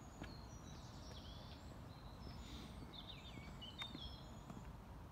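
Small birds chirping and trilling in the surrounding trees over a low steady outdoor rumble, with a couple of faint clicks.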